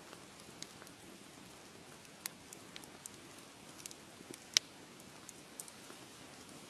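Wood fire crackling softly: a low steady hiss with scattered sharp pops, the loudest about four and a half seconds in.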